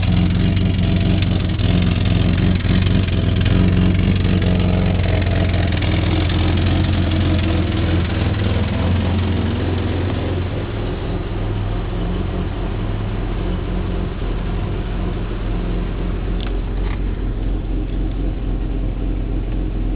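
Subaru XT6's 2.7-litre flat-six engine idling steadily, not yet warmed up; its low hum eases a little about halfway through.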